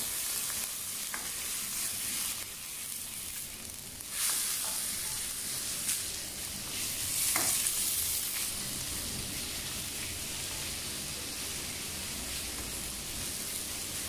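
Tomato, onion and garlic sizzling in hot oil in a wok, stirred now and then with a spatula that scrapes the pan a few times.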